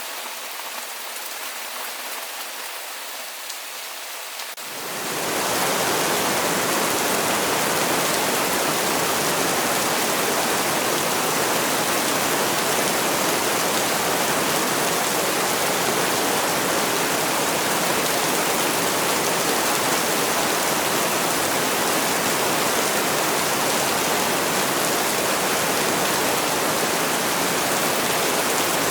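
Rain falling, a thin, lighter patter at first. About five seconds in it quickly swells into a louder, denser, steady downpour that rushes evenly.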